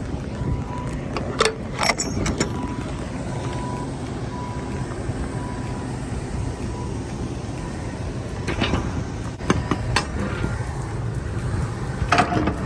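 Semi-truck diesel engine running steadily, with a reversing alarm beeping about every two-thirds of a second through the first half before it stops. Several sharp knocks and clacks cut in, a cluster near the start and more toward the end.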